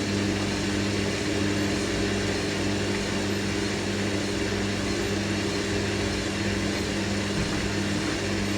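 Hoover NeXtra HNL3146 washing machine spinning its drum on the intermediate spin after the first rinse, a steady motor hum with a rush of noise over it. The load is unbalanced.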